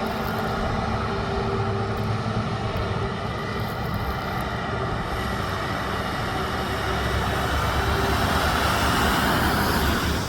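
Truck engine and tyre noise on the road, running steadily, growing louder over the last few seconds and then dropping off suddenly.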